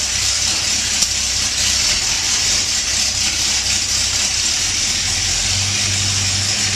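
Ford 460 big-block V8 running steadily just after being started, a low engine note under a loud steady hiss. It is the used engine freshly swapped into the car.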